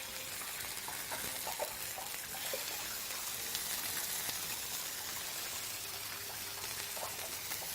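Marinated chicken thighs and drumstick sizzling in oil on a hot grill: a steady hiss with faint scattered crackles.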